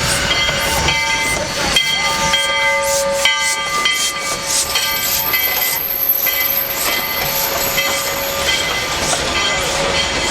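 Narrow-gauge steam train running, with a rhythmic hiss about three times a second and several high steady tones that come and go.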